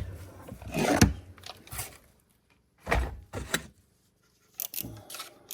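Hand tools being gathered up and put away: a few separate clunks and rattles, the loudest about a second in, more around three seconds in and near the end.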